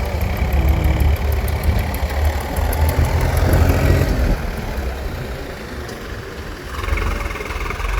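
Heavy diesel engine running steadily with a deep rumble. It eases off for a couple of seconds past the middle and picks up again near the end.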